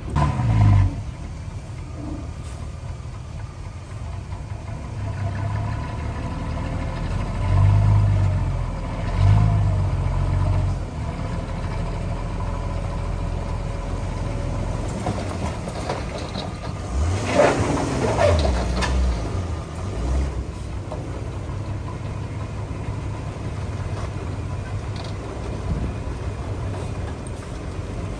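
Heavy diesel construction machinery engine running at low revs, swelling louder a few times, most strongly about 17 to 19 seconds in.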